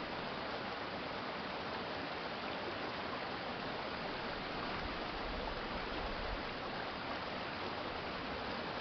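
City stream flowing steadily: an even, unbroken rush of running water.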